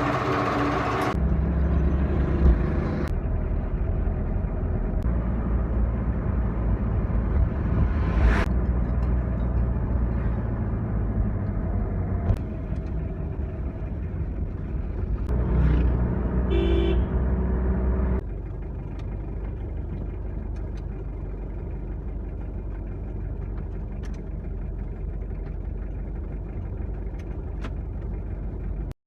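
A motor vehicle being driven, its engine and road noise a steady low rumble, with a short horn toot about two-thirds of the way through. The rumble then drops to a lower level and stays steady.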